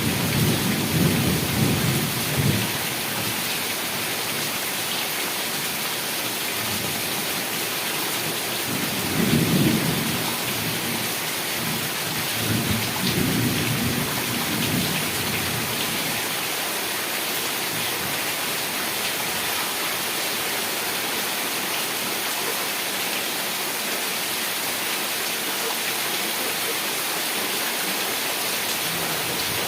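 Heavy rain falling steadily, with rolls of thunder rumbling at the start, again about nine seconds in, and once more a few seconds later, before the rain goes on alone.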